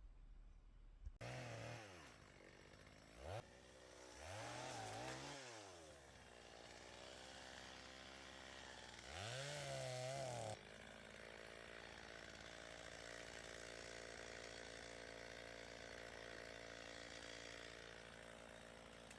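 Two-stroke chainsaw that comes in about a second in and is revved up and back down in several bursts, then settles into a steady idle about ten seconds in.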